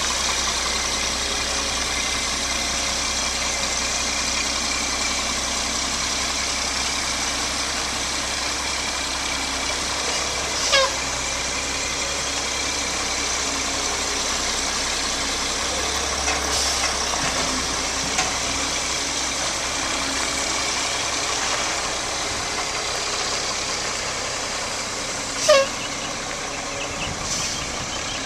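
2007 Mack LE613 refuse truck's diesel engine idling steadily. A short falling squeal comes about eleven seconds in and again near the end.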